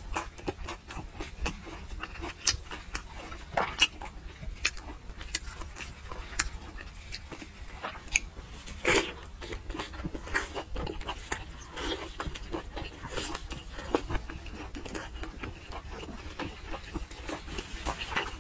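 Close-miked wet chewing and lip smacking of braised fatty pork, a string of irregular sticky clicks with no words.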